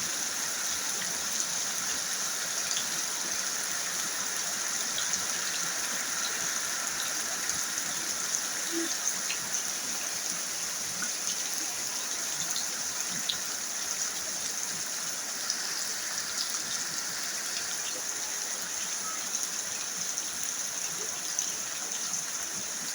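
Rain falling steadily as the storm lets up, with scattered drops ticking.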